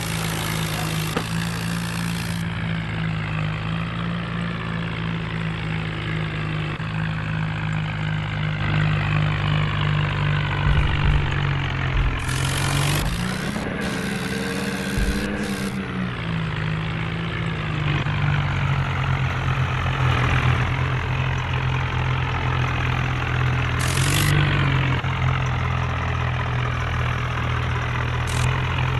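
John Deere tractor engine running steadily, its revs rising briefly about halfway through before dropping back, with a smaller lift later on.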